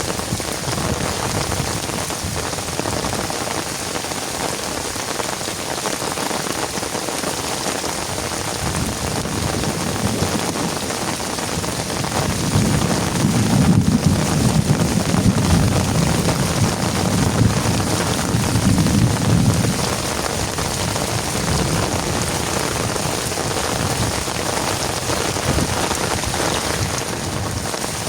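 Heavy rain falling steadily. About halfway through, a low rumble of thunder rolls in for several seconds and then fades back under the rain.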